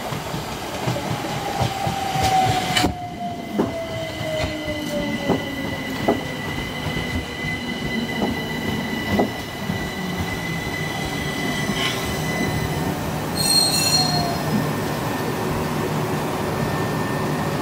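Southern electric multiple unit pulling in alongside the platform: a motor whine falling in pitch during the first few seconds as it slows, a steady high squeal from the wheels and brakes, and wheels clicking over rail joints.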